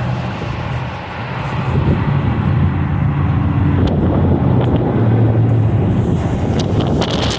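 Gusty storm wind buffeting the microphone, growing stronger about four seconds in, over a low steady hum.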